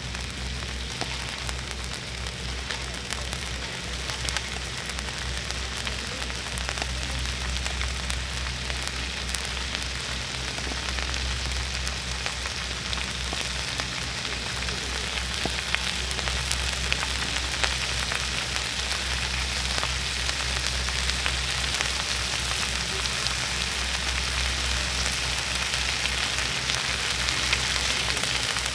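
Pacific saury grilling over a wood campfire: the fish sizzling, with scattered small crackles and pops, getting a little louder toward the end. A low steady hum runs underneath.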